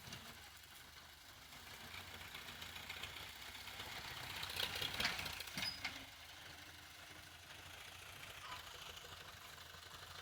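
Tractor engine running, getting louder for a couple of seconds about halfway through, then settling back to a steady hum.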